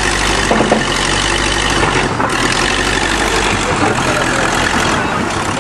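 Large diesel engine of a 1953 International TD-20 crawler bulldozer running steadily.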